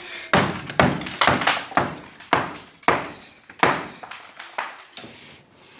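Hammer blows on masonry: about ten sharp, uneven knocks, roughly two a second, as the fireplace is broken apart.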